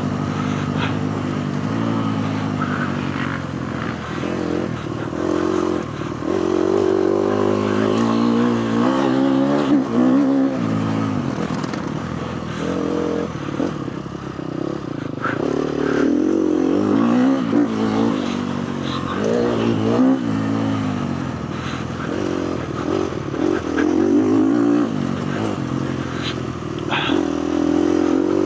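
KTM 250 four-stroke motocross bike engine revving up and falling back over and over as it is ridden around the track, with a few sharp knocks and clatters along the way.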